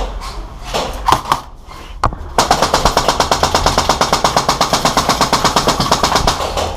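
Airsoft gun firing a long full-auto burst of rapid, evenly spaced shots, about a dozen a second, for roughly four seconds, starting a couple of seconds in after a few scattered single shots.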